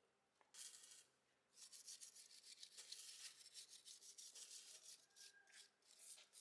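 Faint rubbing or scrubbing, in quick, irregular strokes. A short burst comes about half a second in, then after a brief pause the strokes run on continuously.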